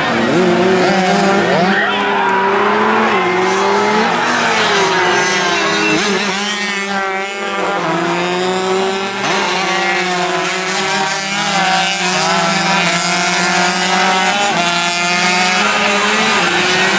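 Several 135cc racing motorcycle engines running hard, their pitches overlapping and rising and falling continuously.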